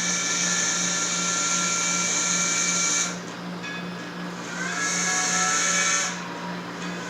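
HO scale model steam locomotive's sound decoder blowing its steam whistle: a long hissy blast of about three seconds, then a shorter one about five seconds in, over a steady low electrical hum.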